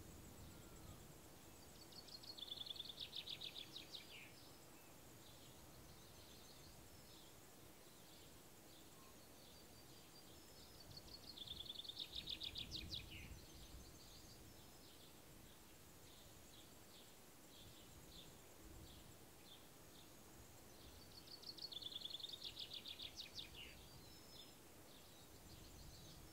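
A songbird singing the same short phrase three times, about every ten seconds: each is a rapid trill of notes about two seconds long that drops in pitch at the end. Faint steady insect chirring runs underneath.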